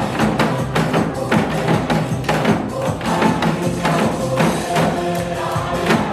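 Janggu hourglass drums struck in a quick, steady rhythm along with recorded backing music.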